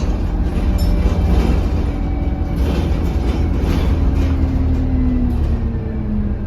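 Diesel engine of an Alexander Dennis Enviro200 single-deck bus heard from on board: a steady low drone with engine tones above it that sink in pitch over the last couple of seconds as the bus eases off.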